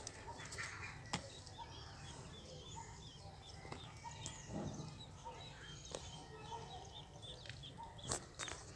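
Nestling birds chirping in the nest: a run of short, high cheeps repeating about three times a second, with a few sharp clicks or taps, the loudest near the end.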